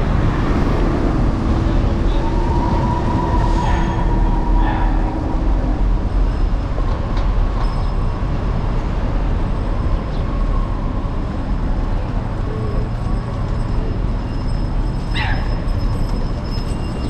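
Street noise recorded from a moving electric scooter: a steady low rumble of traffic and wind on the handlebar-mounted camera, with a steady hum from a passing vehicle for the first few seconds.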